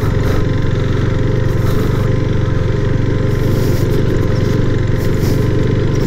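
KTM RC 390's single-cylinder engine running at a steady pace while the bike is ridden, a loud, unbroken drone.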